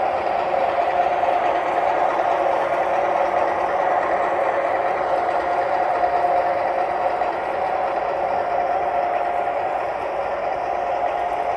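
O scale model train running on the layout: a steady mechanical whir and rumble with a held hum that fades and returns.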